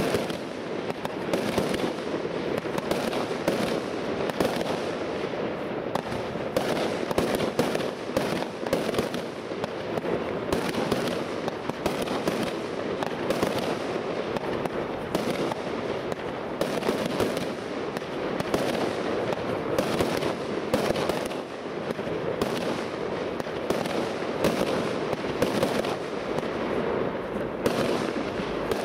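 Aerial fireworks going off in a continuous, dense run of bangs and pops, shots overlapping with no real pause.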